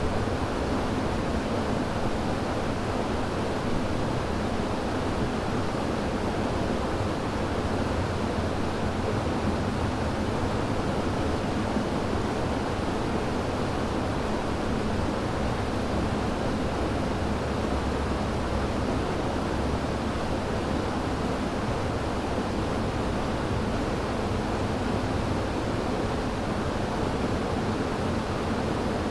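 River water rushing over rocks, a steady full noise with most of its weight in the low and middle range.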